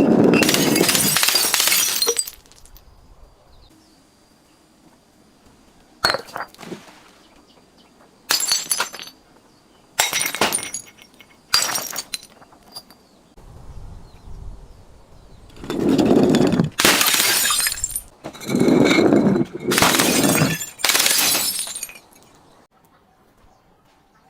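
Glass being broken and crushed in a series of crashes: a long loud crunch at the start, four short sharp breaks between about six and twelve seconds in, then three longer crunching crashes near the end.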